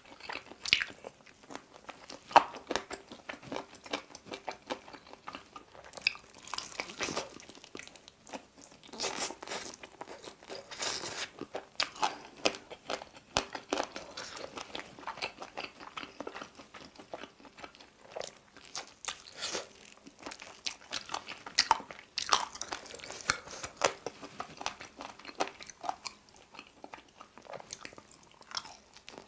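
Close-miked biting and chewing of sauce-glazed chicken wings and drumsticks: irregular crunches and moist chewing sounds, several bites stronger than the rest.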